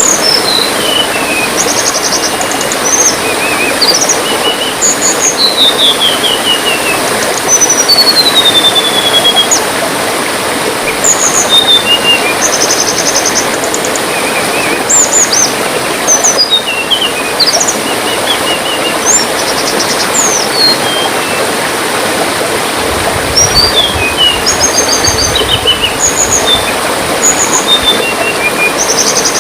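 Songbirds calling in quick chirps, short trills and falling whistle series over the steady rush of trickling water.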